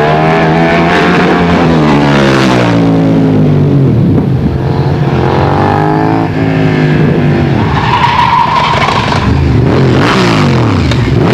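Several motorcycle engines passing at once in a steady stream, their pitch sliding down and up as each goes by and changes throttle. A steady higher tone sounds for about a second about eight seconds in.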